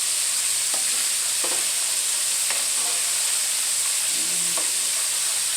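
Mustard-coated chicken wings deep-frying in hot oil in a wok: a steady sizzle with a few scattered pops and crackles.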